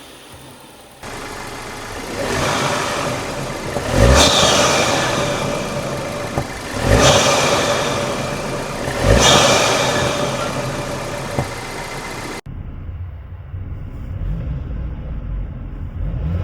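The Audi A4 35 TFSI's turbocharged 2.0 TFSI four-cylinder, breathing through a DNA cotton panel air filter, is revved three times. Each rev comes in sharply with a rush of intake noise and then dies away. Near the end the sound cuts to a steadier, low engine rumble.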